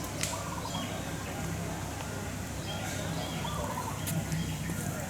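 Greater flamingos calling in a few short calls, over a steady low background hum.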